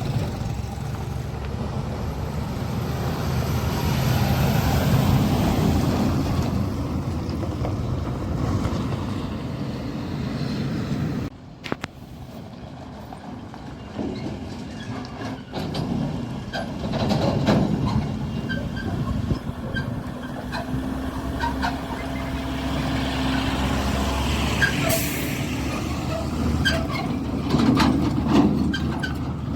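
Heavy diesel vehicles, an MSRTC bus and a Tata truck, running on a ghat road with a steady low engine noise. The sound drops abruptly about 11 s in, then builds again, and a short sharp hiss comes near the end.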